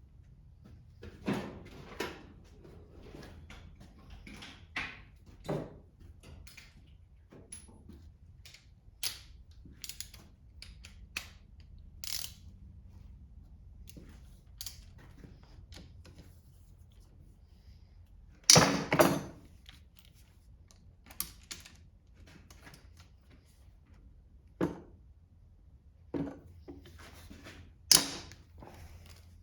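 Irregular clicks and metal clanks of hand tools and parts being handled while a Kohler small engine is taken apart, with the loudest clanks about two-thirds of the way through.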